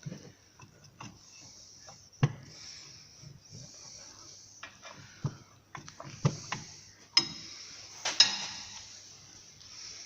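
Scattered metal knocks and clicks of tools and a suspension arm being handled during control-arm removal, with a louder clank about eight seconds in that rings briefly.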